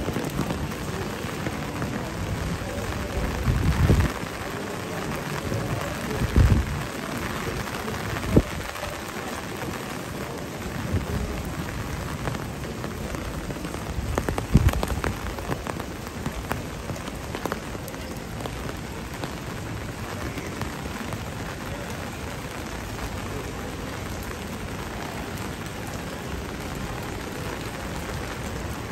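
Steady rain hissing down, with a few short low thumps in the first half.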